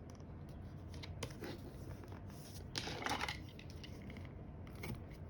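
Faint handling sounds of double-sided tape and cardstock being laid down: a few short scraping rustles, the longest about three seconds in.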